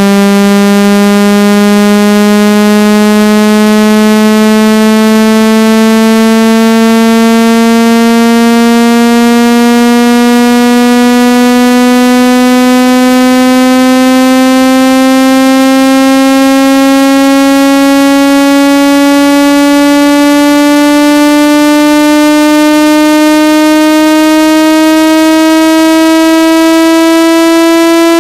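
Loud electronic buzzing tone, rich in overtones, that climbs slowly and steadily in pitch. It is a speaker water-ejection sweep, played to shake trapped water out of a phone's speaker or earpiece.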